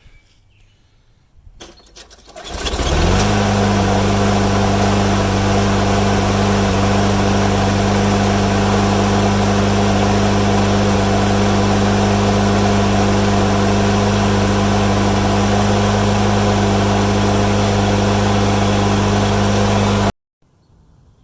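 Toro lawn mower engine started about two and a half seconds in, catching at once and then running at a steady speed without sputtering, its carburetor jet freshly cleaned. The sound cuts off suddenly near the end.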